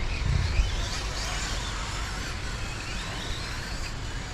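Radio-controlled two-wheel-drive stadium trucks racing, their electric motors whining and gliding up and down in pitch with throttle, over a steady low rumble.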